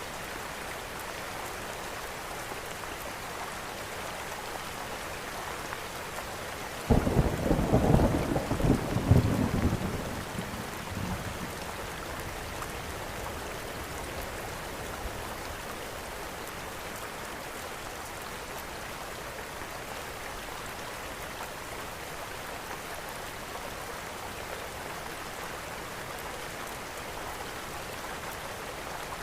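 Steady rainfall hissing, broken about seven seconds in by a sudden loud clap of thunder that rumbles for about three seconds and then fades back into the rain.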